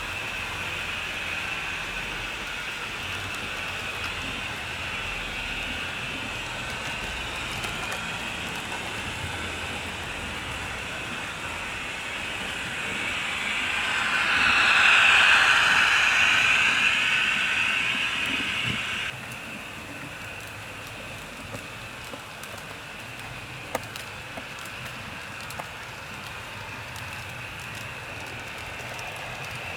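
HO scale model train running on the layout, its motor and wheels making a steady whirring hiss on the track. It grows louder as the train passes close, about halfway through, then drops suddenly. A few small clicks follow, like wheels going over rail joints.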